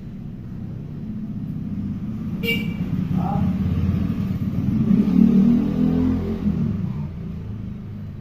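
A motor vehicle's engine rumbling, growing louder to a peak about five seconds in and then fading away. A short sharp high sound comes about two and a half seconds in.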